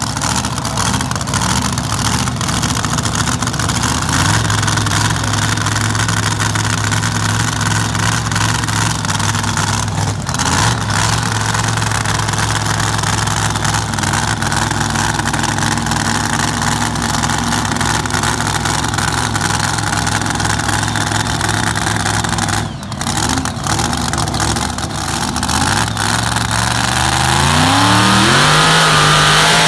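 A pulling vehicle's engine running hard at a steady pitch, with two brief dips, about ten and twenty-three seconds in. Near the end it revs up, its pitch rising and growing louder.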